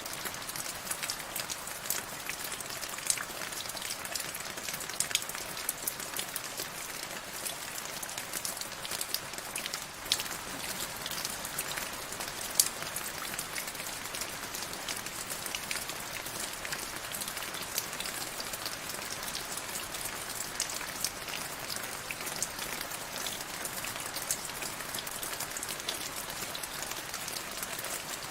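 Steady rain falling on a surface, a continuous hiss full of individual drop impacts, with a few louder single drops now and then.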